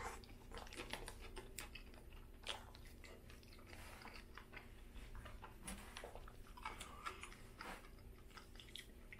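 A Burger King Whopper bitten into near the start and then chewed close to the microphone: faint, irregular wet mouth clicks of chewing over a low steady hum.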